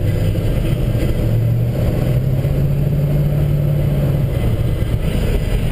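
1963 Chevrolet C10 pickup under way, heard from inside the cab: its 350 small-block V8 running steadily with road noise. The engine note rises slightly about two seconds in and eases back after about four seconds.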